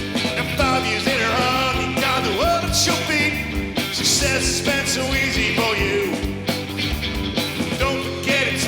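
Live rock band playing a loud instrumental passage: a lead melody that slides and bends in pitch over steady drums and bass.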